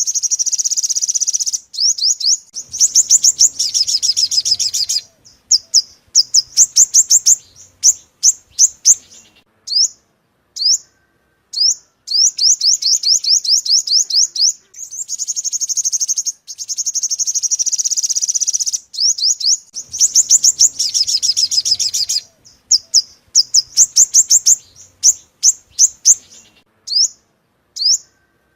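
Yellow-bellied sunbird song played as a lure call: long, fast, high trills of a few seconds each, alternating with strings of single sharp, downward-sweeping chirps, the sequence repeating.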